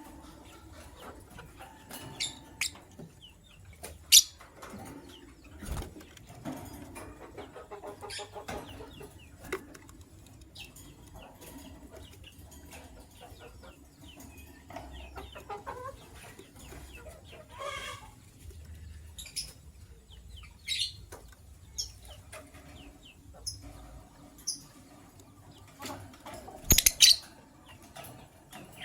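Lovebirds chirping: scattered short, sharp chirps and squeaks, with the loudest call about four seconds in and a quick cluster near the end.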